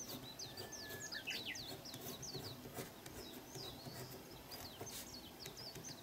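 Small birds chirping faintly in a continuous run of short, quick, falling chirps, with one brief steady whistled note about a second in.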